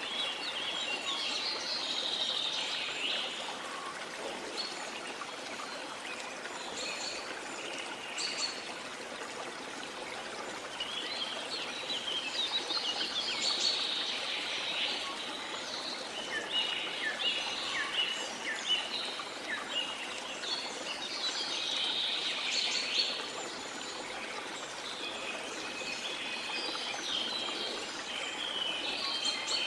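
Steady wash of sea water with small birds chirping and twittering in several bursts, near the start, around the middle and near the end.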